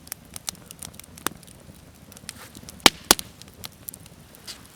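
Campfire crackling: scattered small snaps, with two sharp, louder cracks close together about three seconds in.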